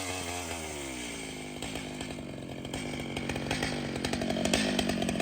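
Large two-stroke chainsaw coming off full throttle, its pitch falling away to idle within about the first second, then idling unevenly.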